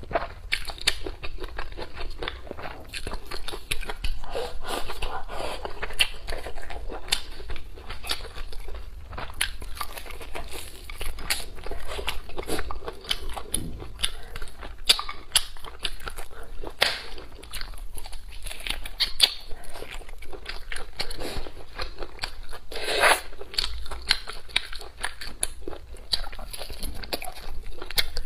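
Close-miked mouth sounds of a person biting and chewing food: a dense, irregular run of short clicks and smacks.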